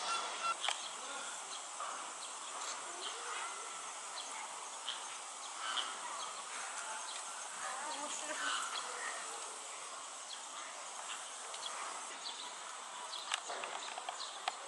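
Steady insect buzzing, with faint distant voices and a few light clicks.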